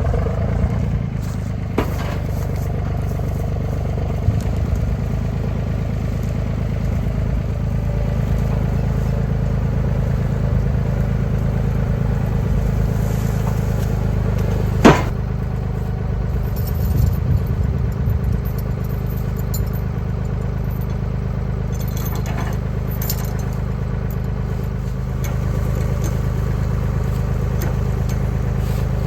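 Tractor engine running steadily, with one sharp knock about halfway through.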